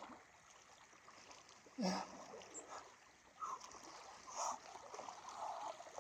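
A person swimming in a cold mountain lake: quiet water sloshing and splashing, with a short loud vocal gasp about two seconds in and softer breaths or splashes after it.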